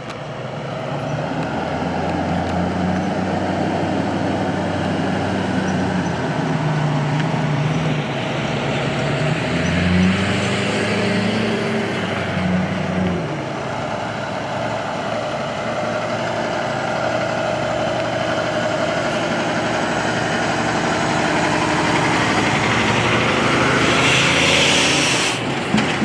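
Heavy trucks and other traffic passing on a highway, diesel engines running, with engine pitch rising and falling about a third of the way in. A brief hiss comes near the end.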